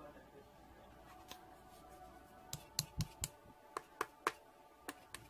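Slime being played with by hand, giving a series of sharp clicking pops, sparse at first and coming thick from about halfway in.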